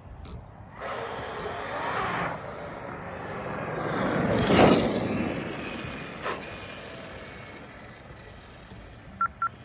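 Traxxas XRT radio-controlled monster truck on 12S brushless power with belt drive running past, its motor and tyres building to a peak about halfway and fading as it drives away. Two short beeps near the end.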